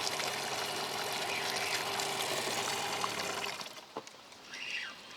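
Water splashing and trickling at the side of a small boat, with a steady outboard motor hum under it. About three and a half seconds in, the motor noise drops away, leaving quieter splashing.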